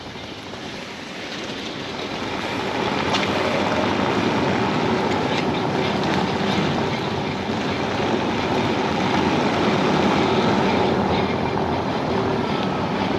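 Road and tyre noise inside a 2015 Tesla Model S P85D, building over the first few seconds and then holding steady, with irregular sharp clicks from the rear of the car: an unexplained clicking that the owner cannot place.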